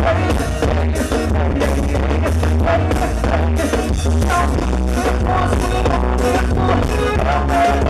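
Live band music with a heavy, steady bass line and a regular drum beat under a pitched melody.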